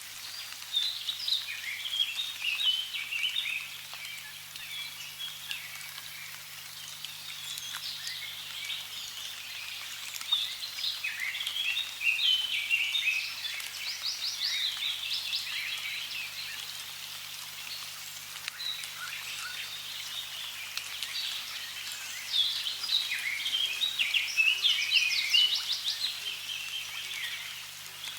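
Many birds chirping and trilling at once in a busy chorus, with busier spells coming and going, over a faint steady hiss of running water.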